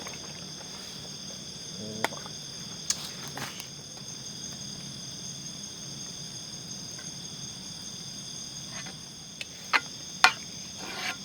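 Steady chorus of night insects, crickets trilling on several high pitches at once, with a few sharp clicks and knocks scattered through it, a cluster of them near the end.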